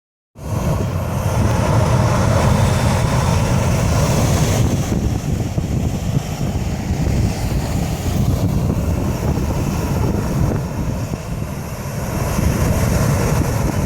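Boeing 737 jet engines at takeoff thrust, a loud steady roar with the jet blast buffeting the microphone.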